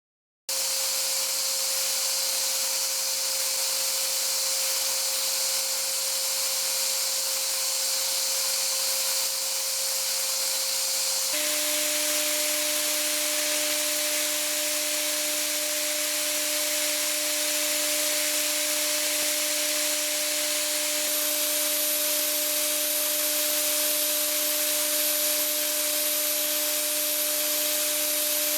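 Hwacheon SIRIUS-UL+ vertical machining center milling a mold and die part: a steady spindle and cutting whine over a hiss. About 11 seconds in, the whine jumps to a new steady pitch, and a high whistle joins around 21 seconds in.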